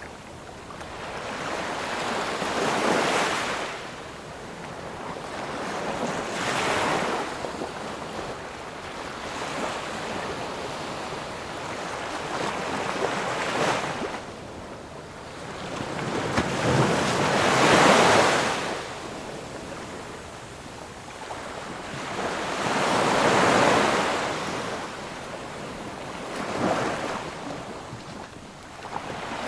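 Ocean waves breaking and washing on a shore, swelling and falling back in repeated surges every few seconds, the biggest wave about two-thirds of the way through.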